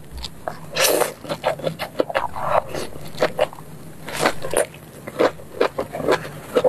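Close-miked eating sounds: biting into and chewing a sauce-glazed grilled green pepper off a skewer, a run of irregular short wet bites and mouth sounds.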